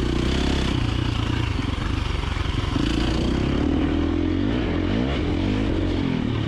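KTM 350XC-F dirt bike's single-cylinder four-stroke engine running under a rider off-road, its revs rising and falling with the throttle, the pitch swinging up and down about four to five seconds in.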